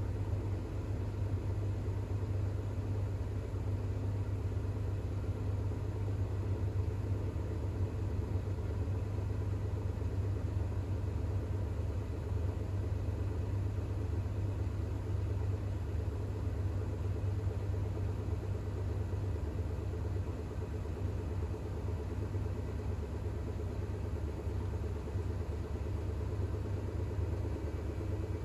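Bosch WAX32GH1 front-loading washing machine spinning at about 1200 rpm in an intermediate spin with an unbalanced load of towels: a steady low hum from the drum and motor.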